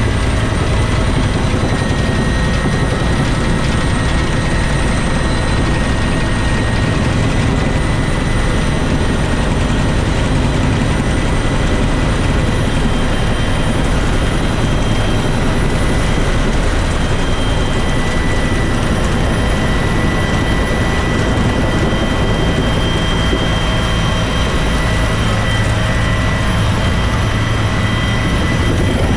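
Bell UH-1 Huey helicopter running steadily in flight: a constant deep rotor and turboshaft engine noise with a steady high turbine whine over it.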